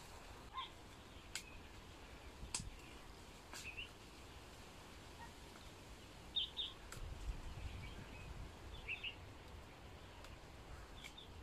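Faint bird chirps, short and scattered every second or two, over a quiet background, with a few light sharp clicks in between.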